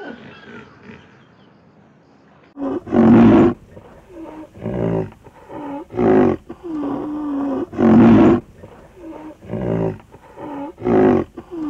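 Rhinoceros calling: a series of six loud calls about a second and a half apart, beginning about two and a half seconds in, with a lower drawn-out tone between some of them.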